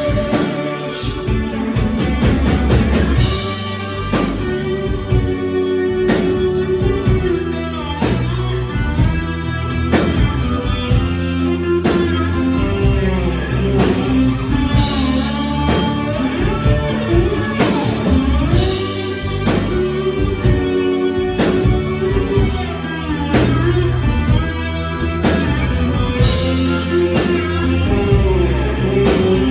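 Rock band playing an instrumental passage with no vocals: electric guitar lead with notes that bend and slide, over bass and a drum kit.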